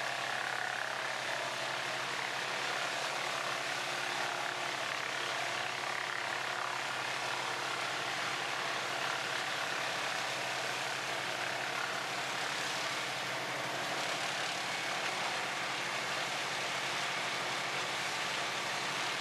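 Large wood chipper's engine running steadily: a continuous, even drone with no change in speed.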